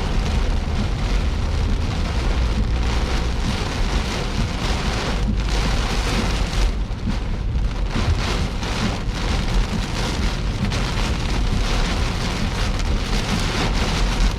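Heavy rain hitting a car in a thunderstorm, a dense steady patter of drops over a strong low rumble of wind.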